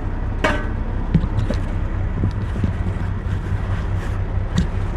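Steady low hum of the semi truck's engine idling, with a sharp clatter about half a second in and a few lighter knocks after it as the air fryer is handled and emptied.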